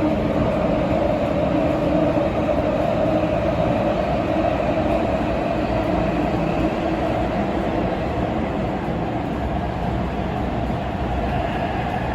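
Tokyo Metro 16000-series subway train running at speed between stations: a steady rumble of wheels and running gear, with a humming tone that fades over the first few seconds.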